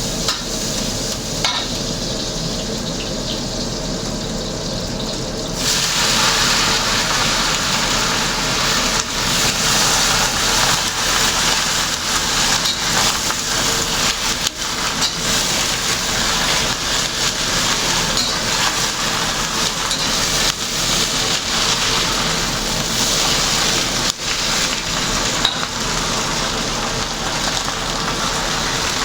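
Food frying in hot oil in a pan, a steady crackling sizzle that turns louder and brighter about six seconds in, as more goes into the fat.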